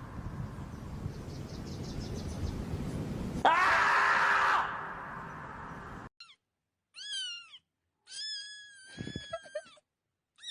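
A steady noisy hiss with one loud wailing cry about three and a half seconds in. Then, over silence, a cat meowing: a short falling meow, then a long meow held for about a second and a half.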